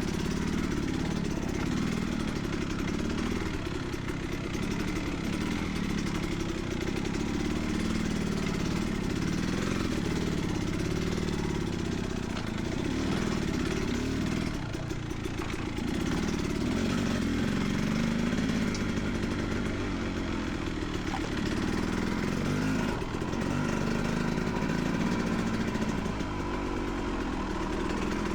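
Beta 300RR Race Edition dirt bike's two-stroke engine running steadily, its revs rising and falling, with a brief dip about halfway through.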